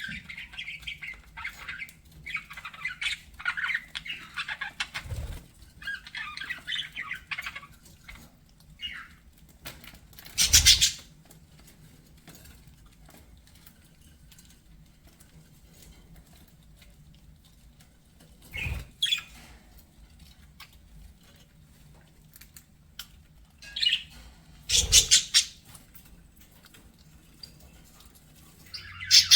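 Budgerigars chirping and warbling in a busy chatter for the first several seconds, then only scattered calls, broken by three short loud bursts about ten, nineteen and twenty-five seconds in.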